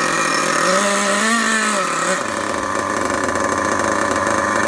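Dynamite .28 nitro RC engine running just after starting, set very rich. Its revs rise briefly about a second in and fall back, then it settles into a lower, rougher running note about two seconds in.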